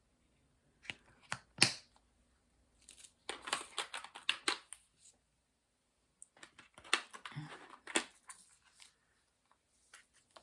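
Plastic packaging being handled: a few sharp clicks about a second in, then two stretches of crinkling and rustling.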